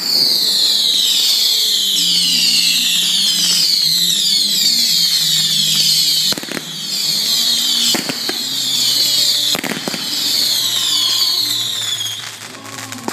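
Fireworks going off at close range: many overlapping shrill whistles, each falling in pitch, rising again and again. Sharp bangs come about six seconds in, near eight seconds and near ten seconds.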